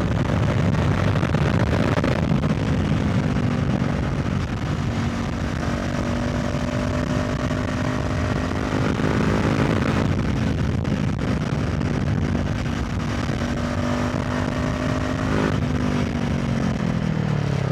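Honda CB500F parallel-twin engine running through an SC Project Conic titanium slip-on exhaust while riding at steady throttle, with wind noise on the microphone. The engine note shifts a few times and drops in pitch near the end as the bike slows.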